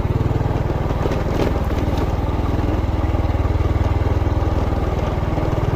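Motorcycle engine running steadily while riding, with a fast, even firing pulse under a hiss of wind and road noise.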